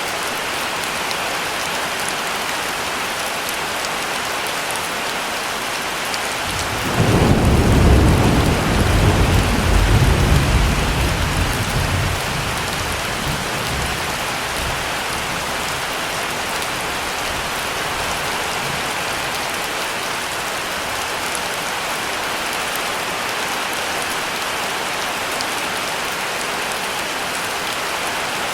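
Steady heavy rain with a single roll of thunder that breaks in about seven seconds in, rumbles low for several seconds and fades away.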